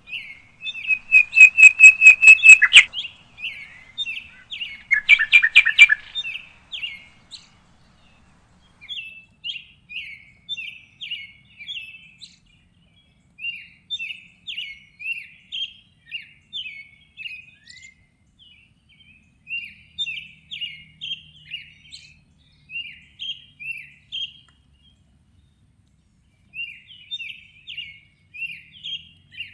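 Songbirds chirping, with phrases of short repeated chirps. A nearer bird gives two loud, fast trills, the first about a second in and the second about five seconds in.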